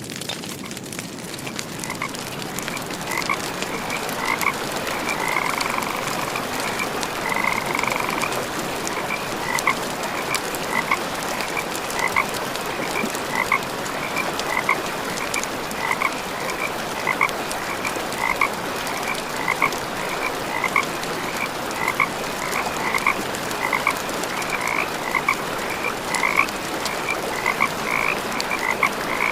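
Frogs croaking in short repeated calls, about one or two a second, over a steady hiss with scattered campfire crackles.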